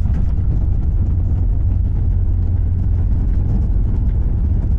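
Steady low rumble of a Boeing 737 MAX 8 heard inside its cabin as it comes in to land.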